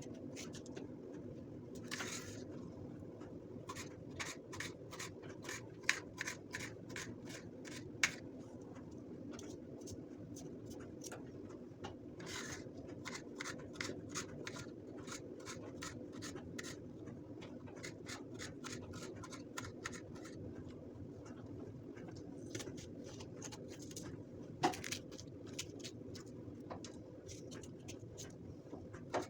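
Hands handling things: irregular light clicks and taps with some scraping and rubbing, a few sharper knocks near the middle and towards the end, over a steady low hum.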